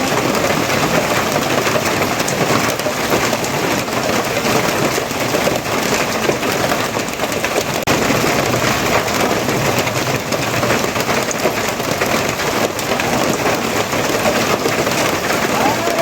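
Steady rain falling on a surface, a dense, even patter of drops.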